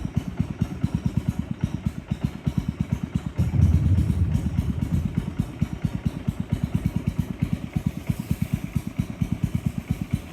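Small boat's engine running with a rapid, even putter of about ten pulses a second. About three and a half seconds in, a louder low rumble swells for a second or so.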